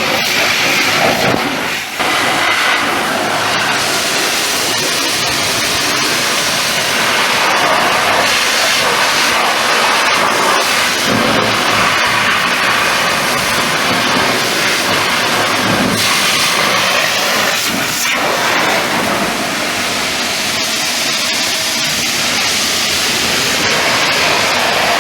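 Water spray hissing hard against the truck's bodywork, a loud steady rush that swells and eases as the jet moves over the panels.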